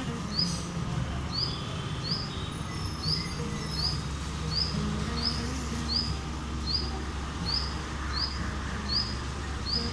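A bird calling over and over with a short, high, rising chirp, about one every two-thirds of a second, very evenly spaced.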